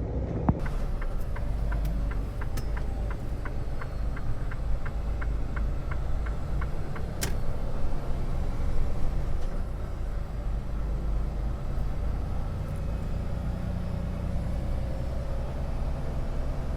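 Semi truck's diesel engine running with a steady low rumble. A quick run of light, evenly spaced clicks, about four a second, comes in the first few seconds, and one sharp tick comes about seven seconds in.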